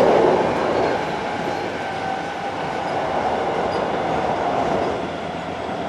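Running noise inside a Hankyu 7300 series electric train car with field-chopper control: wheels on rail with a faint, steady whine over the rumble.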